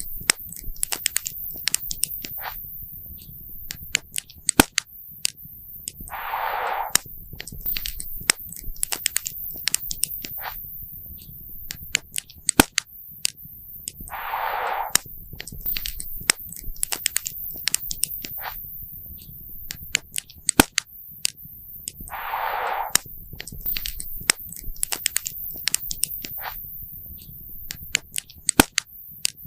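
Wood campfire crackling, with many sharp pops and snaps over a low steady rumble. A short rushing noise swells up three times, about eight seconds apart.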